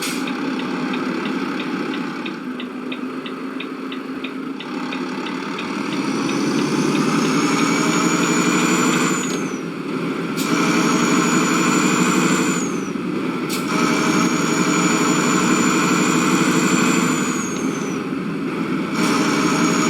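Road vehicle heard from inside, pulling away and accelerating up through the gears: a steady engine drone with a high whine that rises with each gear and drops at each of three shifts. Regular ticking, like a turn indicator, runs through the first few seconds.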